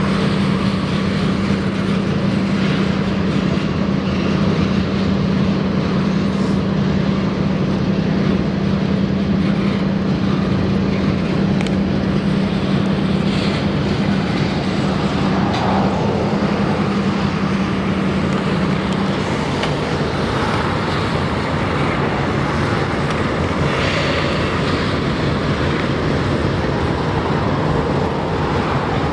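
Diesel locomotive engine running steadily with a low hum over a constant rumble; the hum drops in pitch about two-thirds of the way through.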